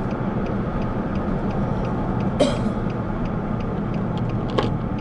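Car cabin noise while driving: a steady low engine and road rumble, with light, even ticking about three times a second. A short rustle comes about halfway through and a click near the end.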